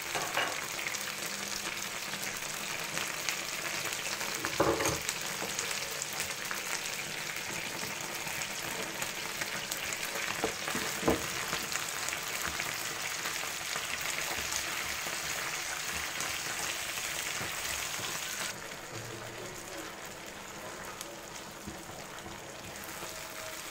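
Chicken wings sizzling steadily as they fry in a pan, with a couple of sharp knocks from the tongs and spatula against the pan. The sizzle quietens about three-quarters of the way through as chopped vegetables are stirred in.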